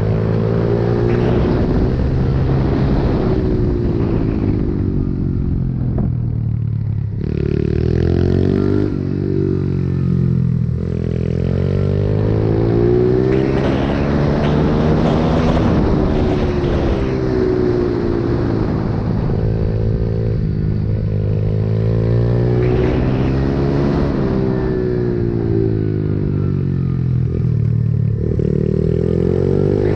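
Pit bike engine under hard use, its pitch climbing and dropping back again and again as the bike accelerates and slows; a sharp drop about seven seconds in.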